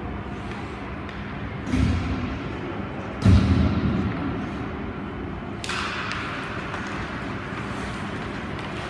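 Ice hockey rink sounds: two heavy thuds against the boards, the second louder, then a sharp scraping on the ice that fades, over the steady noise of the rink.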